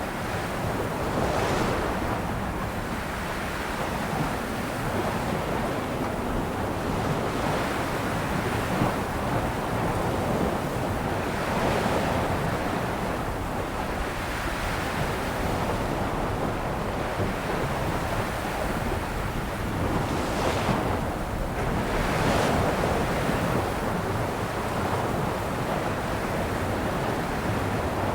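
Ocean surf, with waves washing continuously onto the shore and swelling and ebbing every few seconds. Two louder breakers come about three-quarters of the way through.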